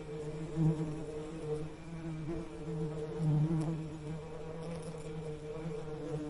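Bee buzzing: a steady, low droning hum that wavers in loudness, swelling briefly about a second in and again past the middle.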